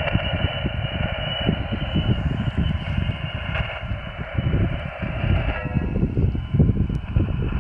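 Receiver audio from an mcHF SDR shortwave transceiver: band-limited static hiss with steady whistling heterodyne tones from other stations' carriers. The static drops away about two-thirds of the way through. Wind rumbles on the microphone underneath.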